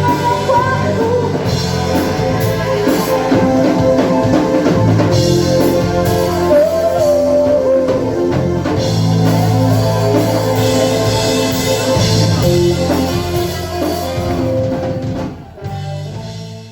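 Rock band playing live, with drum kit and guitar. The music drops about 15 seconds in and dies away at the end.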